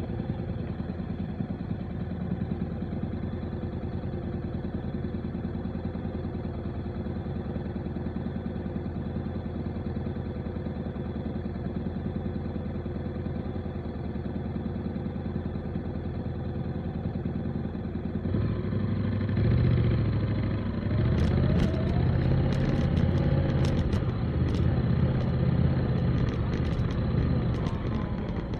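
Motorcycle engine running steadily under way, growing louder and changing note about two-thirds of the way through as the bike is opened up. A scatter of sharp clicks comes in shortly after and keeps up near the end.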